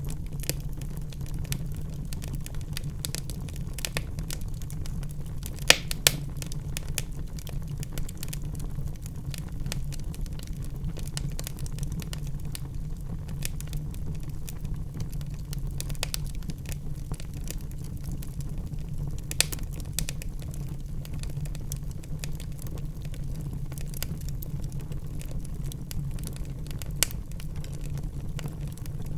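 Wood fire crackling in a fireplace: a steady low rumble under many small sharp crackles, with a few louder pops, two of them close together about six seconds in.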